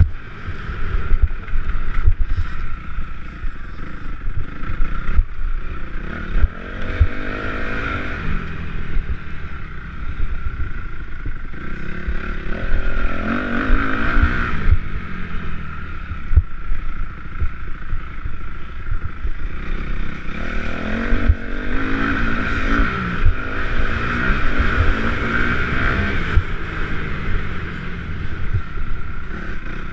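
Several motocross bikes racing around the track, their engines revving up and dropping back through the gears, one swelling louder as it accelerates past now and then. Wind buffets the microphone throughout.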